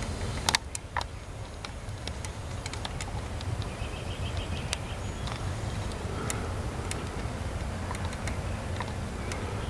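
Slow-moving CSX coal train rolling past: a steady low rumble with scattered sharp clicks and clanks from the cars.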